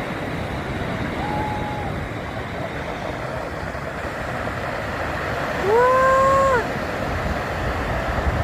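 Sea surf breaking, with low, steady wash and rumble. A short held high call sounds faintly just over a second in, and a louder one lasting about a second comes about six seconds in.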